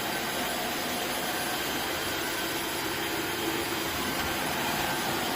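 Tineco Floor ONE S7 Pro cordless wet-dry floor washer running steadily on its powerful setting: an even whir of its suction motor and brush roller, with a faint steady high whine.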